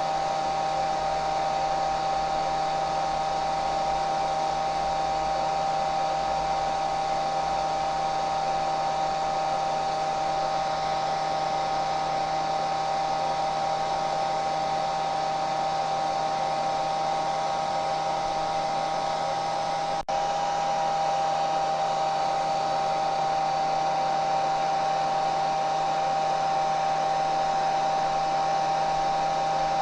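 Hair dryer running steadily: an even rush of blown air with a constant high motor whine on top. About twenty seconds in the sound dips for a split second and picks up again unchanged.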